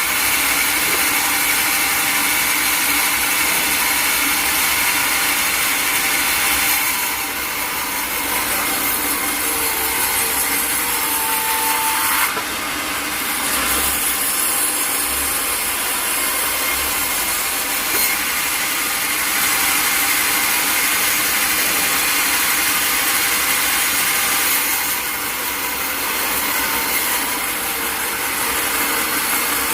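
Sawmill saw cutting through a log: a steady, loud, high-pitched hiss of the blade in the wood, easing briefly a few times.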